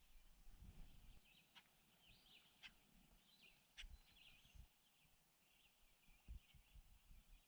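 Near silence, with faint, irregular bird chirping throughout and three light clicks about a second apart early on.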